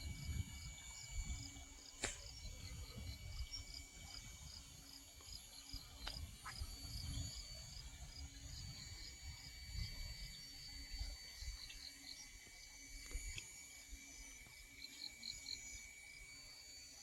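Insects chirping in chorus: a high chirp repeating about four times a second over steady high-pitched trilling, with an uneven low rumble beneath.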